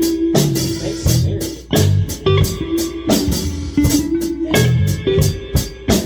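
Live rock band jamming: a drum kit keeps a steady beat of about two strikes a second under bass guitar notes, with an electric guitar playing a sustained melody line.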